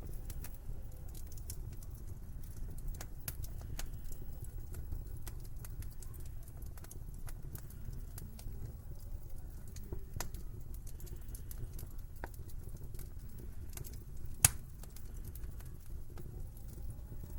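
Wood fire in a fireplace crackling, with many small sharp crackles over a low steady rumble and one loud pop about fourteen and a half seconds in.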